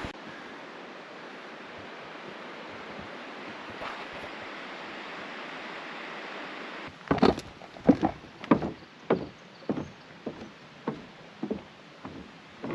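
A steady rushing outdoor noise. About seven seconds in it gives way to a run of footsteps, roughly one every 0.6 s, loud at first and then softer.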